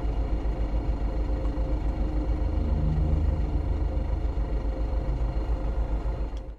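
GAZon Next truck's diesel engine running under way, heard from inside the cab as a steady, evenly pulsing low rumble with road noise, swelling slightly around the middle.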